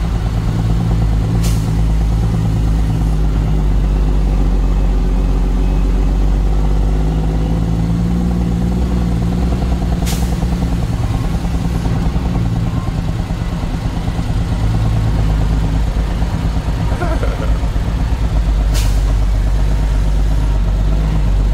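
Truck engine running steadily while driving, a continuous low drone. Three brief sharp clicks come about a second and a half, ten and nineteen seconds in.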